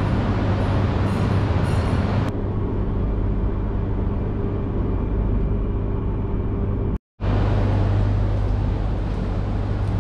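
Steady low hum of a stopped Shinkansen train and its station. About two seconds in it changes abruptly to a quieter hum with faint steady tones, and about seven seconds in it cuts out briefly before the hum returns.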